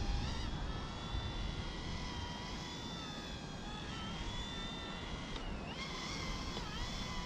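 E120 micro RC helicopter's electric motor and rotors whining in flight, the pitch wavering and dipping briefly a couple of times as the throttle is worked against strong gusts. Wind buffets the microphone with a low rumble throughout.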